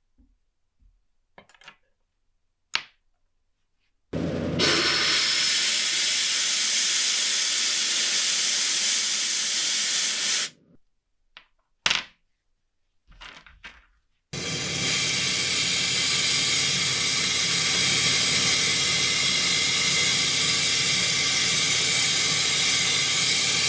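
Compressed air hissing steadily from an air tool in two long bursts of about six and nine seconds, with small clicks and taps of handling before and between them.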